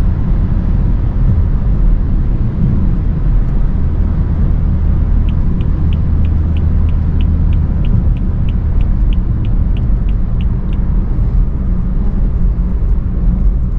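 BMW 335i's N55 turbocharged straight-six running on the move, heard through an exhaust microphone as a steady low drone. In the middle, a run of even high ticks, about three a second, lasts some five seconds.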